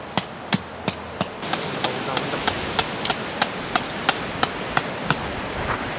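Tent peg being hammered into the ground, a steady run of sharp strikes about three a second, with wind noise behind.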